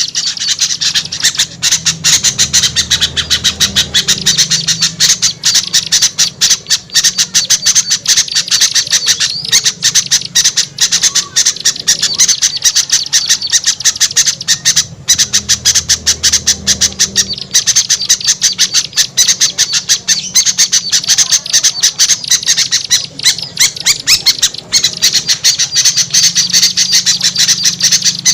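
Dense, unbroken chatter and squawking of small songbirds, a noisy agitated mix of the kind used as a bird-lure call (suara pikat ribut), with rapid high notes running on without a break.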